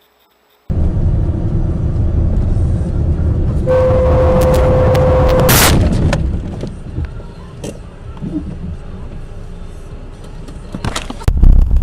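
Road rumble of a moving car, then a car horn blaring steadily for about two seconds, cut off by a loud crash impact, followed by scattered clatter of debris. Loud road noise starts again near the end.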